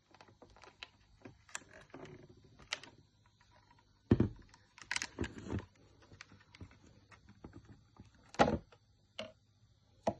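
Handling noises: scattered light clicks and knocks, with louder thumps about four, five and eight and a half seconds in.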